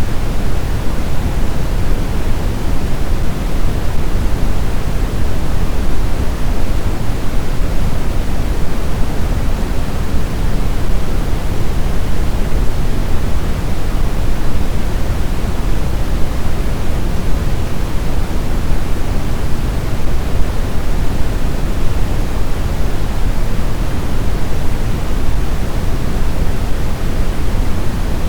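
Steady snowstorm wind: an even, dense rushing noise, heaviest in the low end, with no gusts, whistles or breaks.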